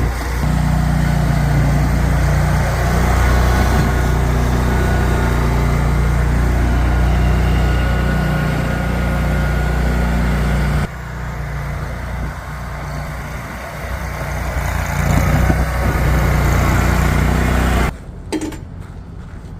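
Engine of snow-clearing equipment running steadily under load. A little past halfway the level drops suddenly. Near the end it cuts abruptly to a much quieter stretch with a few clicks.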